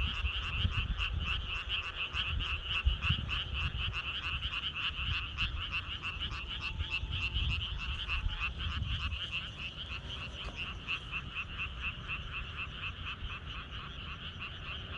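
A chorus of frogs croaking, a continuous run of rapid pulsing calls that overlap one another, easing slightly near the end. A low rumble runs underneath.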